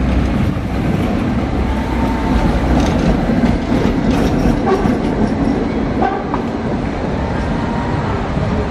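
Tatra tram running on its rails: a steady rumble with a few sharp clicks of the wheels over rail joints and a faint whine that rises and falls.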